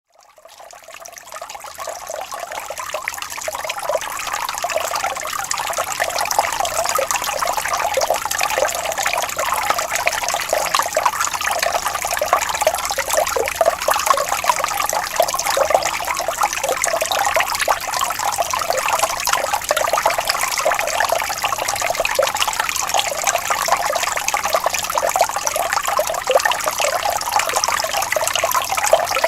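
Small stream of water flowing and trickling gently over stones, a steady babbling with fine splashes, fading in over the first few seconds.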